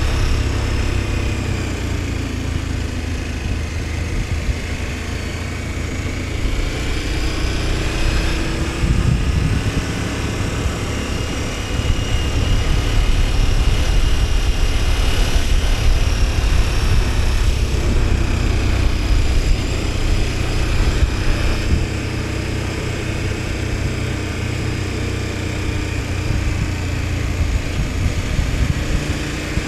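KTM 1290 Super Adventure S's V-twin engine running under way, its pitch rising and falling gently with the throttle, over a steady rush of wind noise.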